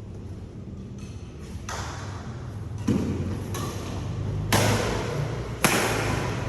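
Badminton rackets striking a shuttlecock in a rally, about five sharp hits roughly a second apart, each echoing in the hall.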